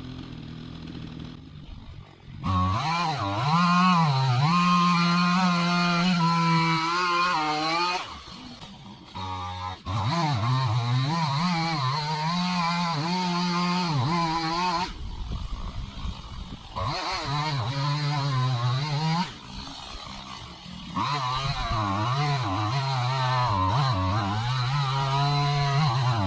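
Two-stroke chainsaw cutting into a dead tree: four long runs at full throttle, several seconds each, with the pitch wavering under the load of the cut, dropping back to a low idle between runs.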